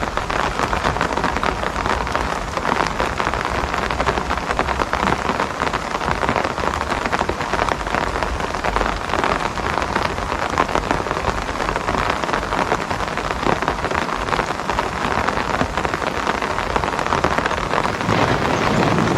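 Steady rain falling: a dense patter of individual drops over an even hiss.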